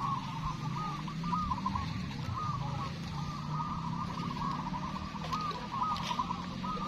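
Many caged zebra doves (perkutut) cooing at once in a continuous, overlapping chorus of short warbling phrases, over a low steady hum.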